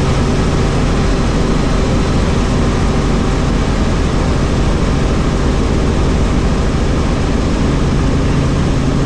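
Helicopter in flight: the turbine engine and rotor blades make a loud, steady drone with a constant low hum.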